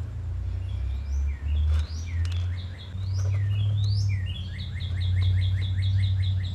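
A songbird singing: sweeping whistled notes, then in the second half a quick run of repeated chirps, about five a second. A steady low rumble runs underneath.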